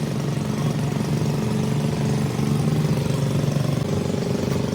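An engine running steadily at one speed: a low, even hum with a fine rhythmic pulse.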